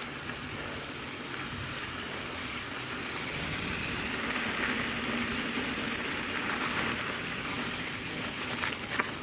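Mountain bike tyres rolling over a loose dirt and gravel trail, with a steady crunching hiss that grows a little louder in the middle.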